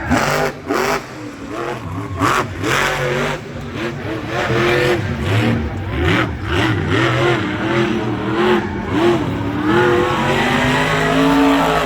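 Monster truck engine revving hard, its pitch rising and falling over and over, with sharp cracks in the first few seconds.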